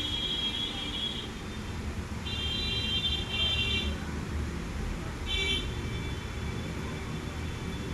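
Steady low rumble of background road traffic, with a high-pitched tone sounding three times for about a second each, a couple of seconds apart.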